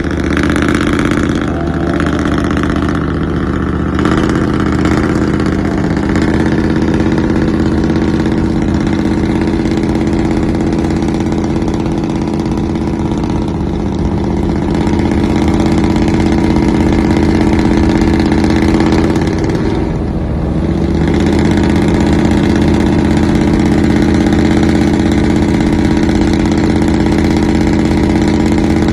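Pickup truck engine running steadily at idle, with a brief dip and recovery about two-thirds of the way through.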